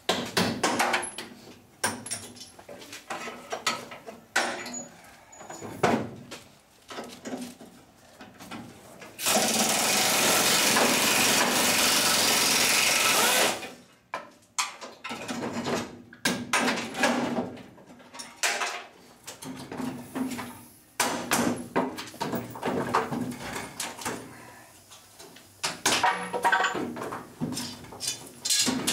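Knocks and clanks of tools on the truck's metal parts, with a power tool running steadily for about four seconds near the middle.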